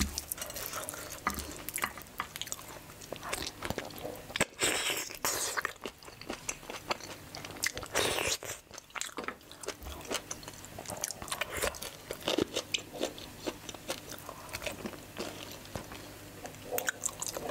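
Close-miked eating: chewing, biting and wet mouth sounds from mouthfuls of mutton curry and rice eaten by hand, with fingers squishing rice on the plate. Irregular clicks throughout, with louder wet bursts about four seconds in and again about eight seconds in.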